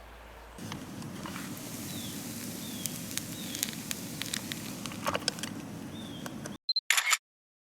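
Campfire crackling: scattered sharp pops over a steady low rush of burning wood, with a few short high falling chirps mixed in. It cuts off abruptly about six and a half seconds in, leaving a brief burst and then dead silence.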